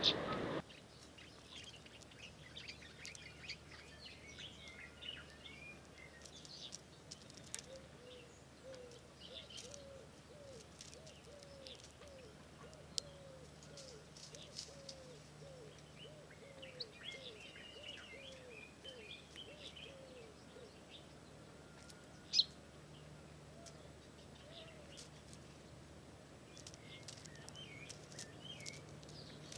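Wild birds calling: thin high chirps and twitters throughout, and from about eight seconds in until about twenty-one, a long series of low, short, falling notes, roughly one or two a second. A single sharp click a little past twenty-two seconds is the loudest sound.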